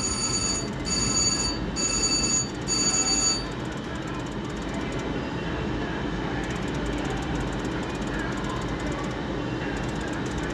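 Slot machine bell ringing in four quick electronic bursts of high steady tones, then stopping about a third of the way in. A steady casino din of machine jingles and chatter is left behind.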